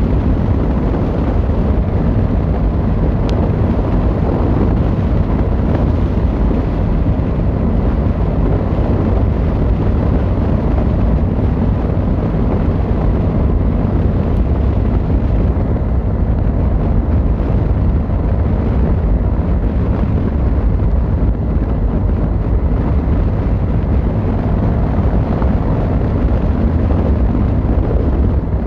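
Yamaha XVZ1300 Royal Star's V4 engine and exhaust running at a steady cruise, with wind buffeting the microphone.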